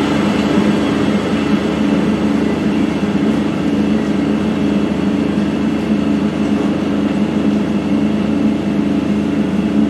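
A train's diesel engine running steadily, its pitch unchanged throughout.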